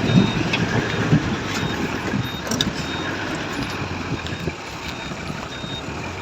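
A heavy truck's diesel engine running, with its reversing alarm giving a short high beep again and again while the vehicle is manoeuvred.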